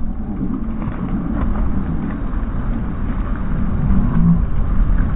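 Torrential rain and wind beating on a goal-mounted action camera's microphone: a loud, steady noise with a heavy low rumble.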